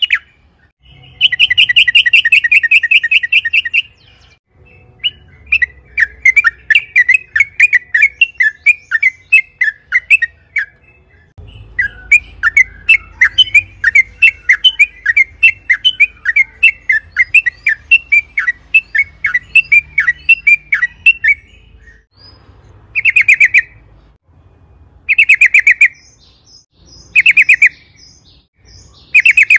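Yellow-vented bulbul singing: a fast rattled phrase, then two long runs of rapid, bubbly chattering notes, and in the last few seconds short rattled bursts about two seconds apart.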